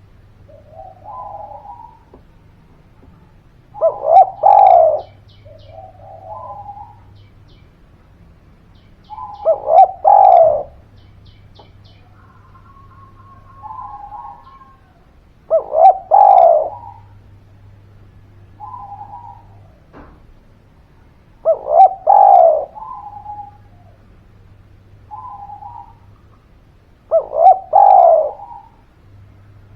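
Spotted dove (derkuku) calling: a loud two-part coo phrase about every six seconds, five times, with fainter, shorter coos in between. It is a lively, persistent song of the kind used to prompt other doves to call.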